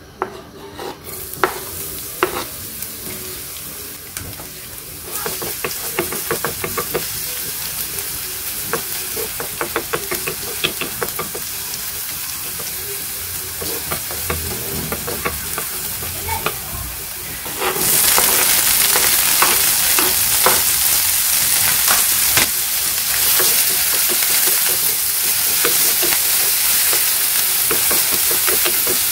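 Minced garlic sizzling in hot oil in a nonstick frying pan, stirred with a spatula that scrapes and taps the pan. About 18 seconds in the sizzling turns suddenly louder as chopped red onion goes into the pan.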